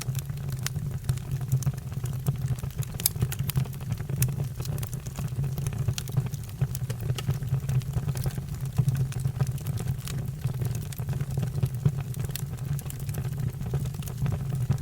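Fire burning with a steady low rumble and frequent, irregular sharp crackles and pops.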